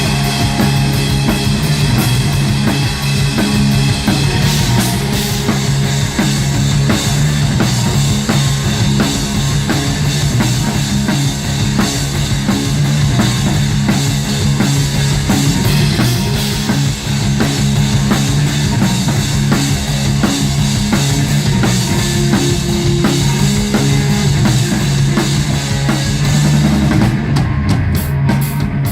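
Rock band playing live: drum kit keeping a steady beat under guitars and bass.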